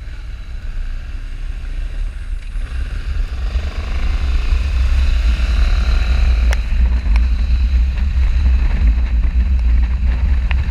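Motorcycle riding at speed: heavy wind rush and buffeting on the microphone over the engine's running, growing louder over the first few seconds as the bike gathers speed, then holding steady.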